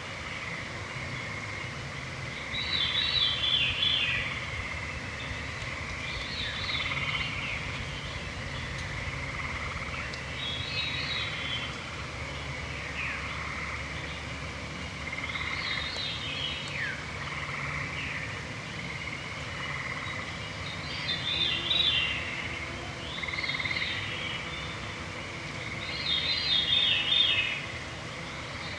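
Evening woodland chorus: a songbird repeats a short, falling song phrase every three to four seconds, over a continuous high trilling from a distant frog chorus.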